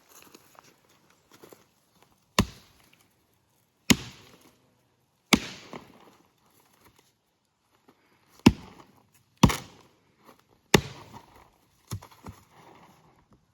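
Seven sharp, hard blows spaced one to three seconds apart, each with a short ringing tail.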